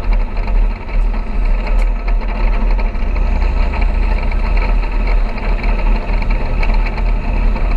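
Heavy farm vehicle's engine running steadily, with a strong deep hum and a dense mechanical rumble.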